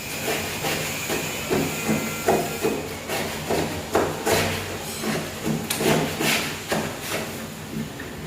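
Irregular knocking and tapping, roughly two knocks a second, over a faint steady hum.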